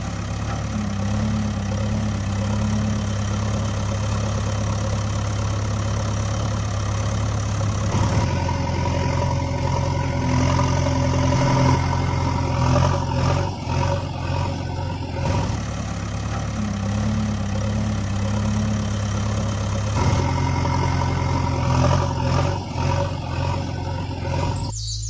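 Vehicle engine running steadily. Its note changes in distinct steps about 8, 15 and 20 seconds in, and it sounds rougher in stretches around the middle and near the end.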